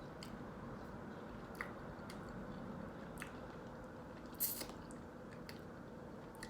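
Close-miked chewing and wet mouth sounds of someone eating a breakfast sandwich. There are a few soft clicks, and one louder sharp smack or crunch about four and a half seconds in.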